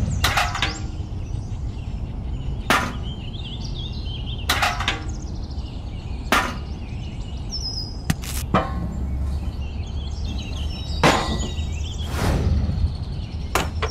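Small tin toy buckets clinking and knocking as they are handled and set down on sand, about ten sharp knocks at irregular intervals, over a steady low hum.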